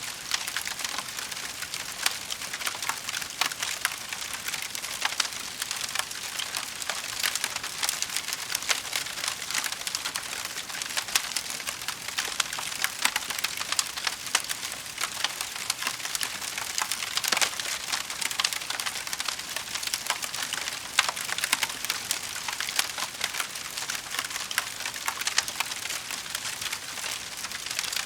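Wood fire crackling in a fireplace: a dense run of small pops and snaps over a steady hiss, with a few louder pops here and there.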